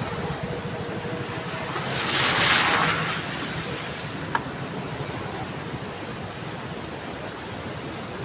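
Heavy rain falling steadily, a dense even hiss, which swells louder and brighter for about a second around two seconds in. A faint single click a little later.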